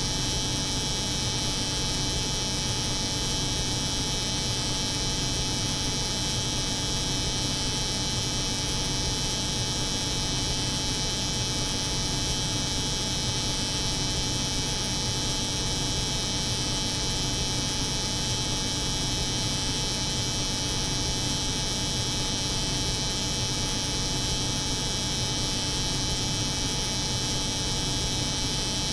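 Steady layered drone of an electric hair clipper buzzing over the hum of a cold room, unchanging throughout: a low hum with a bright high hiss above it.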